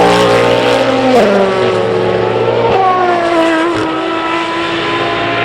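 Race car engines at speed on the circuit, the engine note falling in pitch as the cars go by, with a sharp drop about a second in and a new, higher note near three seconds that then slides down.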